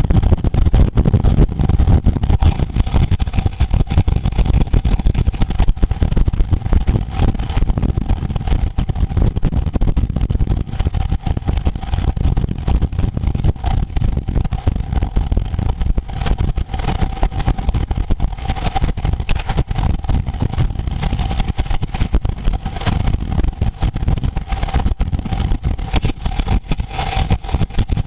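Wind buffeting the microphone of a camera carried on a moving road bicycle during a race, a loud, gusty rumble with a steady hum underneath.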